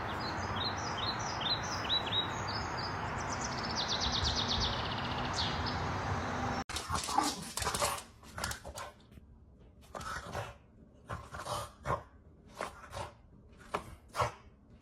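A steady rushing noise with a series of short high chirps for the first six seconds. Then a dog barks repeatedly in short separate barks, about one every half second to a second, until the end.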